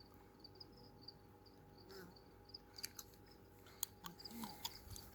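Faint cricket chirping, short high pulses repeating a few times a second, with a few sharp clicks in the second half.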